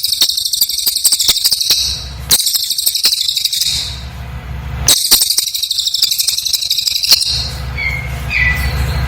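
Cililin songbird singing in three bursts of rapid, very high-pitched, tightly packed trilling, with short regular pauses between them. About seven seconds in, the song stops, a low steady hum sets in and a couple of short chirps follow.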